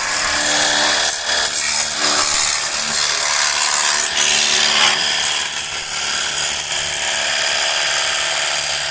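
Battery-powered cordless car wash gun running: its small pump motor whirring steadily under the hiss of the water spray.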